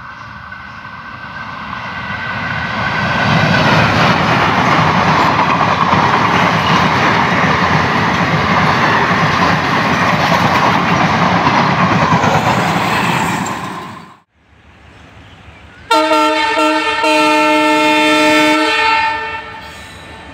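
ALCO WDM3D diesel locomotive hauling a passenger express passes at speed: a loud, steady rush of engine and coach wheels on the rails for about ten seconds that stops abruptly. After a short lull, the locomotive's air horn sounds for about three seconds, with a brief break just after it starts.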